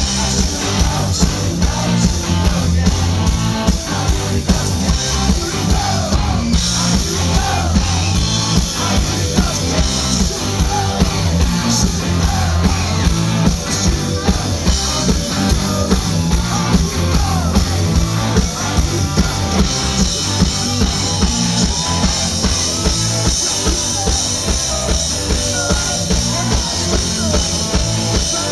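Live rock band playing: drum kit, guitars and bass with a lead vocal over a steady beat.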